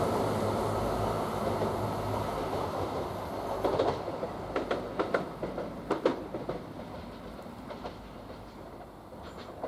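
Class 170 Turbostar diesel multiple unit passing and moving away, its low engine hum fading. Its wheels clack sharply over rail joints several times between about three and a half and six and a half seconds in, then the sound dies down.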